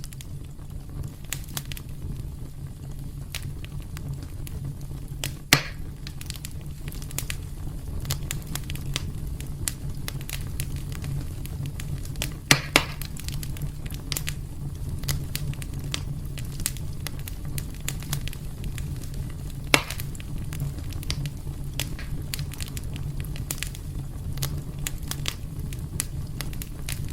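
Wood fire burning in a fireplace: a steady low rumble of flames under constant small crackles, with a few louder pops about five seconds in, a pair around thirteen seconds and another around twenty seconds.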